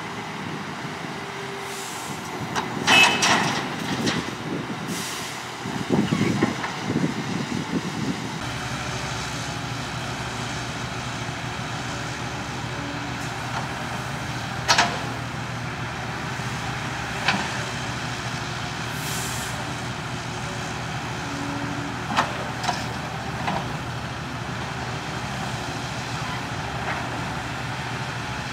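Diesel engines of a Cat 312CL excavator and a Kenworth T800 dump truck running steadily while the excavator loads the truck. There are loud clatters and knocks of the bucket and dumped material early on, single sharp knocks later, and a brief air hiss about two-thirds of the way in.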